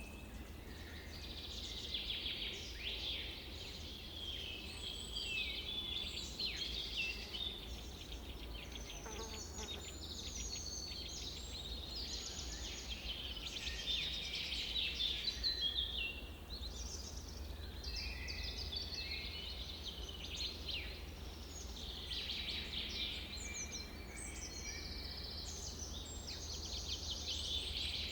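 Dense chorus of songbirds, many short chirps and trills overlapping without pause, over a steady low rumble.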